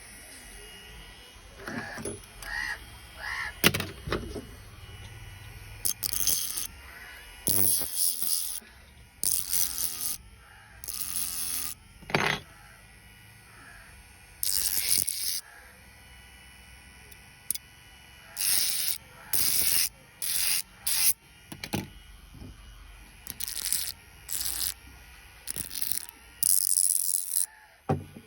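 Homemade rust remover driven by a 775 DC motor: its spinning head is pressed against metal again and again in short scraping bursts, each lasting about half a second to a second, over a faint steady motor hum.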